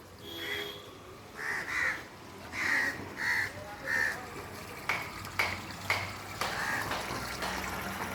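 Crows cawing over and over, a string of short harsh calls. A few sharp clicks or knocks come in between about five and six and a half seconds in.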